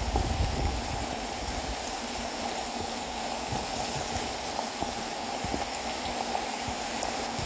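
Steady rain, a constant hiss dotted with scattered drop ticks, with low gusty wind rumble on the microphone in the first second.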